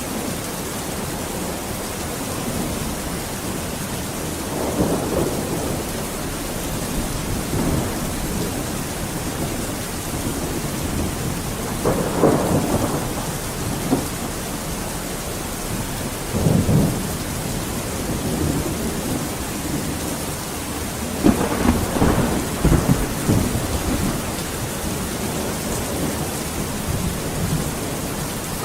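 Steady heavy rain, with rolls of thunder rumbling up several times, loudest around halfway and again in the last third.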